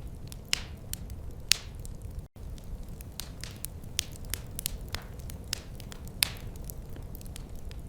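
Wood fire crackling in a fireplace: irregular sharp pops and snaps, a few much louder than the rest, over a steady low rumble. The sound cuts out for an instant a little over two seconds in.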